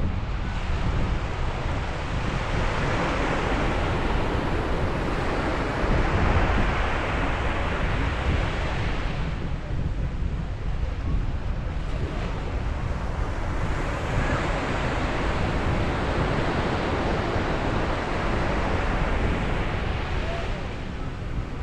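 Ocean waves breaking and washing on a beach, swelling and easing in roughly five-second surges, with a steady low rumble of wind on the microphone.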